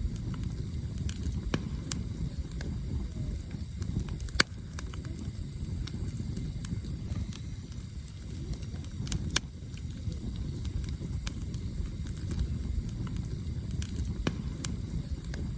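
Campfire burning, firewood crackling with scattered sharp pops over a steady low rumble; the loudest pop comes about four seconds in, and two more close together near the middle.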